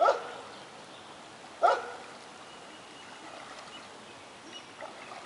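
A dog barks twice, about a second and a half apart.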